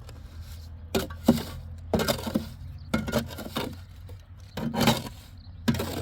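Repeated rough scraping and crunching of hard debris, about one stroke a second, each stroke short and gritty, over a steady low hum.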